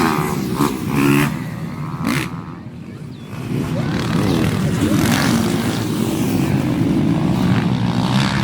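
Motocross dirt bike engines running and revving on the track. They ease off about two and a half seconds in, then build back up and hold.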